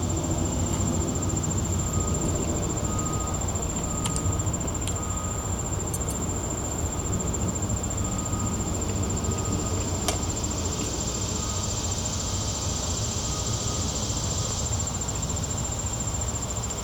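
Insects trilling steadily on one high note, with a faint chirp repeating about twice a second over the first half. A second, hissier insect chorus swells in about ten seconds in and drops away near the end. A few sharp clicks and a steady low rumble sit underneath.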